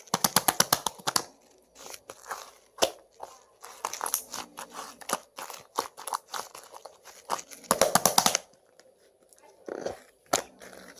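Slime being kneaded and mixed by hand with clay, making sticky clicks and crackles, with two runs of rapid air-bubble pops, one at the start and one about eight seconds in.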